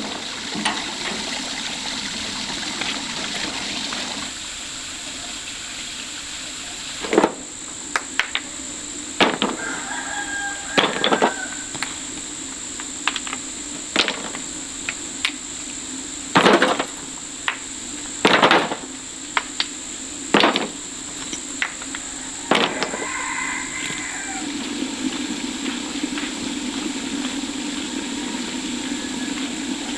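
About a dozen sharp, irregular knocks, spaced a second or two apart, begin several seconds in and stop a few seconds after the middle, over a steady background hum.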